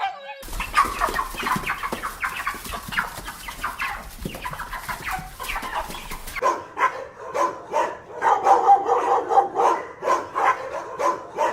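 Chickens clucking, many short calls overlapping. About six seconds in the background noise changes abruptly as a different recording of clucking hens starts.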